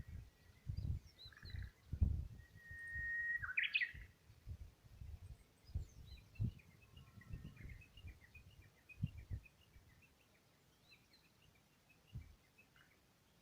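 Wild birds singing: a long held whistle about three seconds in ends in a quick warbled flourish, followed by a run of short high chirps. Irregular low rumbles and thumps come and go underneath, the loudest about two seconds in.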